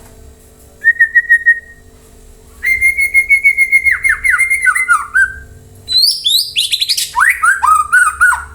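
White-rumped shama (murai batu) singing: three loud phrases of rapid whistled notes. The longer two end in notes that slide down in pitch.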